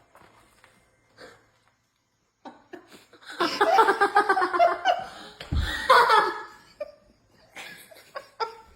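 A person laughing hard for about three seconds, starting a few seconds in, in quick rhythmic pulses, with a dull low bump in the middle of it.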